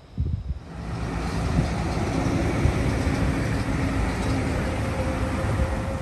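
A motor vehicle going by close to the microphone: a low engine hum under a steady rush of noise that starts suddenly and swells about a second in.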